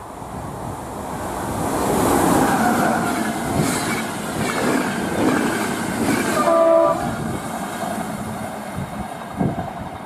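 Passenger train passing at speed, the rush of wheels on rail building up in the first two seconds and staying loud as the coaches go by. A short multi-tone horn blast sounds about two-thirds of the way through.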